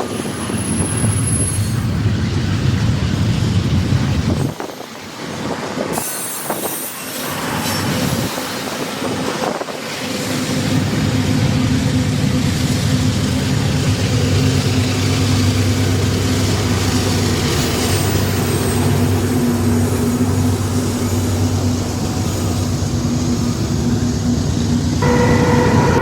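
Intermodal freight train rolling past, a steady rumble of cars and wheels on the rails, with wind buffeting the microphone in the first few seconds. Near the end a locomotive horn suddenly starts sounding its steady chord.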